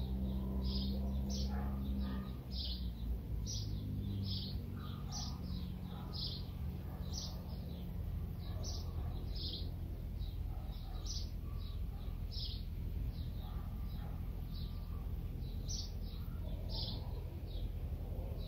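A small bird chirping over and over, short high calls about one and a half a second, over a low outdoor rumble; a low hum fades out in the first few seconds.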